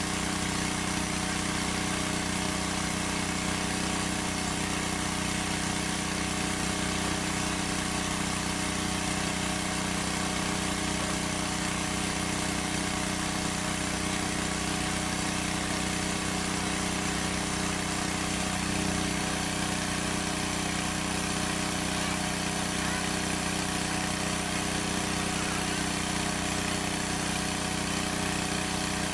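A small engine running steadily at a constant speed, its hum holding one pitch throughout.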